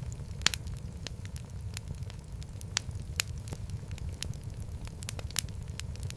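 Wood fire burning in a fireplace: a steady low rumble of the flames with irregular sharp crackles and pops, the loudest pop about half a second in.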